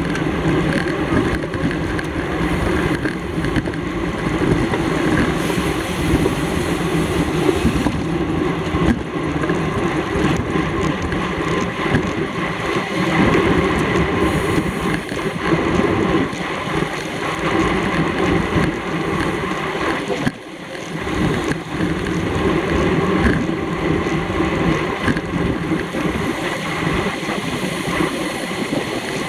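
Steady wind rush over the microphone of a camera riding along in a bicycle race at speed. It drops away briefly about two-thirds of the way through.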